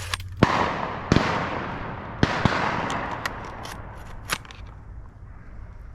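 Shotgun shots at a flushed pheasant: three loud blasts in the first two and a half seconds, each trailing off in a long echo, then a couple of fainter shots farther off.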